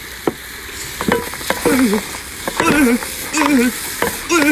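Seafood sizzling in a hot wok with chili sauce as it is stir-fried, the spatula clicking against the pan. Over it, a short wavering voice-like sound repeats several times.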